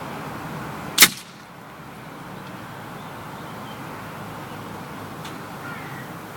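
Weihrauch HW97K spring-piston air rifle firing a single shot about a second in, a sharp crack over steady background noise.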